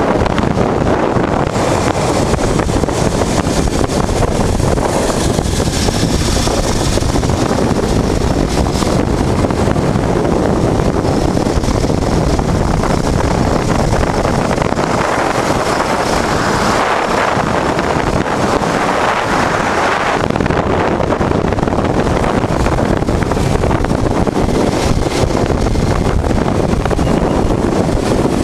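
Loud, steady wind buffeting the microphone on a 1988 Honda Transalp motorcycle under way, with the bike's engine and road noise mixed in beneath it.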